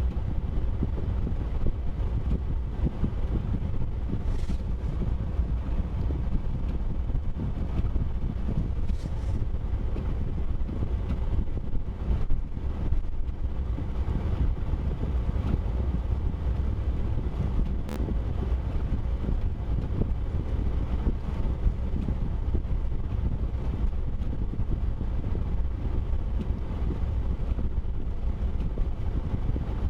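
Steady low rumble of a vehicle being driven, road and engine noise, with one sharp click a little past halfway.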